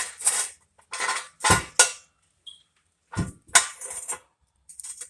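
Metal clanking and clinking: hand tools and exhaust hardware knocked and handled in a series of separate sharp clanks and short rattles.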